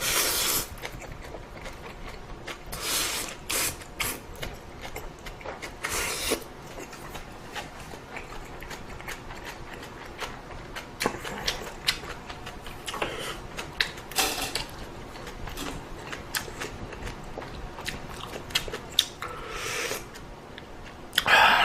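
A person eating a bowl of ramen: short noisy bursts at irregular intervals, with light clicks and rubbing of utensils between them.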